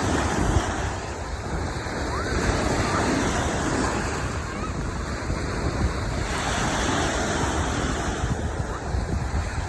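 Sea waves breaking and washing up on a sandy beach, with wind buffeting the microphone as a low rumble; the surf swells louder about two and a half seconds in and again past the middle.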